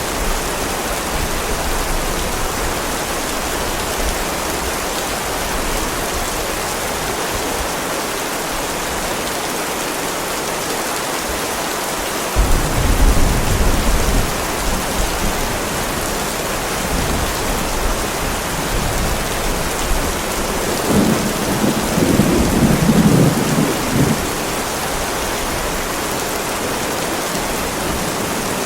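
Heavy rain falling steadily on a driveway, with thunder rumbling twice: a sudden low rumble a little under halfway through and another about three quarters of the way through.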